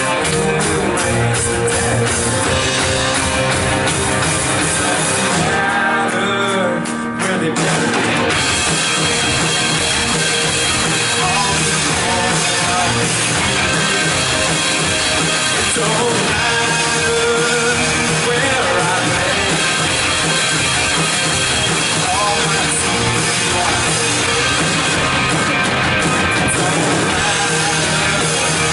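Live worship band playing a loud rock-style song on drum kit and guitars. The cymbals drop out briefly about six seconds in, then the full band comes back.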